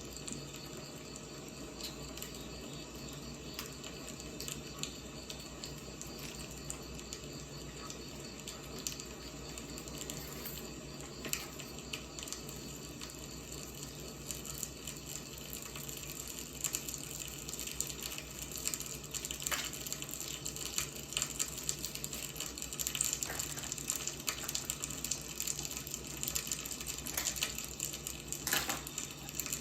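Wood fire burning: a steady hiss with frequent small crackles and pops, which grow busier and louder in the second half.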